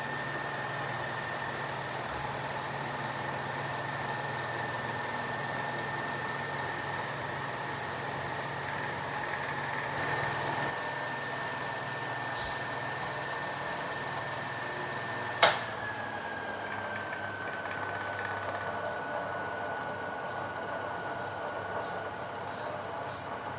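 Boxer BF-12T2 12-inch box fan running with a steady hum and a thin high whine. About two-thirds of the way through comes a single sharp click. After it the whine slides down a little and settles at a lower pitch as the motor slows.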